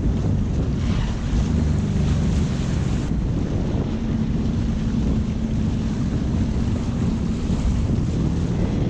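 Jet ski running on the water, its engine humming under heavy wind buffeting on the microphone and rushing water. A steadier engine tone stands out for a few seconds in the middle.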